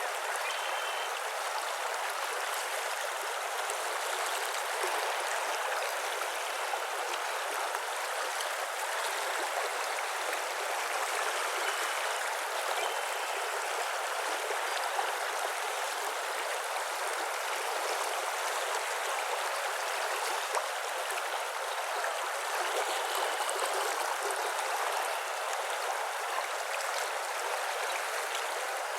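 Steady rush of running water, like a stream, with a few faint short bird calls twice, about midway and again later.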